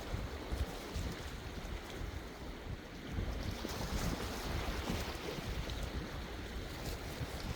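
Sea waves washing in steadily, with wind buffeting the microphone as a fluttering low rumble; the surf swells a little about three seconds in.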